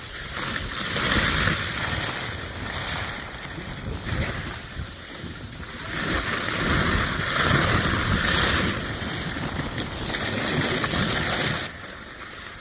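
Skis sliding and scraping over snow on a downhill run, with wind rushing over the microphone. The noise swells and eases repeatedly, then drops away abruptly near the end.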